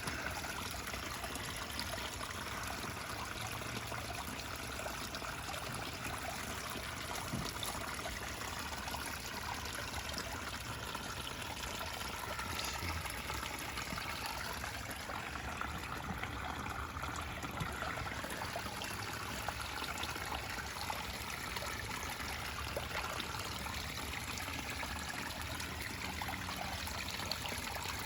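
Waterfall pouring steadily into the water below, a continuous trickling splash.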